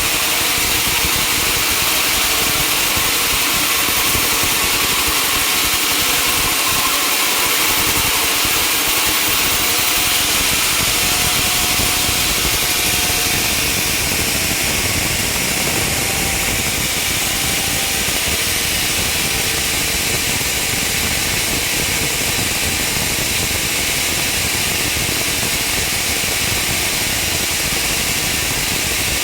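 Sawmill machinery running steadily, a constant engine-like drone with a strong hiss over it; it drops a little in level about halfway through.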